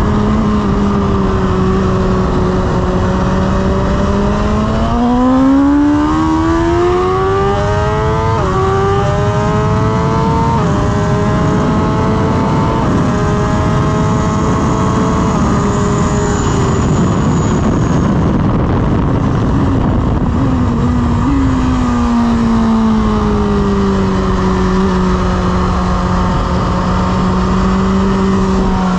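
BMW S1000RR inline-four engine heard from on board, revving hard through the gears with sudden pitch drops at each upshift, then shutting off under braking and blipping on the downshifts. It settles into a steady lower note in a low gear near the end, with heavy wind rush throughout.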